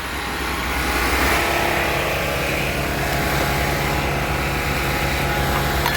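Small portable generator engine running steadily, its hum getting a little louder and changing tone about a second and a half in.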